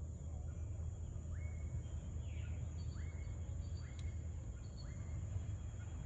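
Faint bird calls over a low steady rumble: a short note that sweeps upward and levels off, repeated four times about a second apart, with a thin high steady hum behind.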